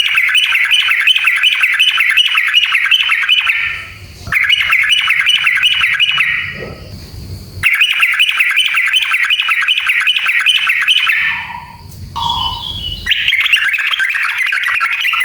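Yellow-vented bulbul (trucukan) singing a long rolling song of fast repeated chattering notes. It comes in four runs of two to four seconds each, with short breaks between them.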